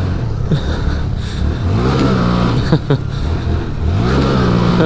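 Small single-cylinder four-stroke mini bike engine under throttle, pitch climbing twice and dropping sharply after each climb, as on upshifts or throttle lifts.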